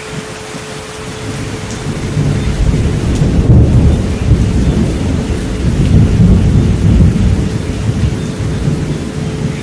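Thunder over steady rain. A low rumble builds about a second or two in, stays heavy through most of the stretch and eases slightly near the end. A faint steady pure tone runs underneath, the 432 Hz relaxation tone.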